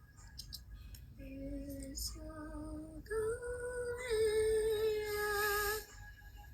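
A woman singing a short phrase of held notes, rising in steps, the last note held for about two seconds with a slight waver.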